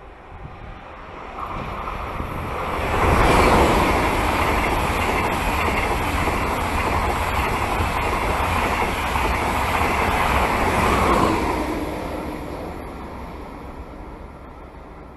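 ICE high-speed train passing through the station at speed: a rushing rumble of wheels on rail that builds about two seconds in, holds loud for about eight seconds, then fades away.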